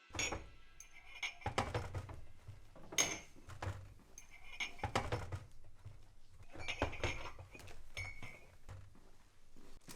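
Crockery being handled and set down on a table: irregular clinks, some ringing briefly, among dull knocks.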